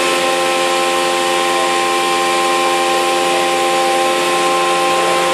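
CNC mill cutting 6082 aluminium with a 3-flute end mill spinning at 8,000 rpm along a trochoidal toolpath. A steady whine of several fixed tones sits over an even cutting hiss.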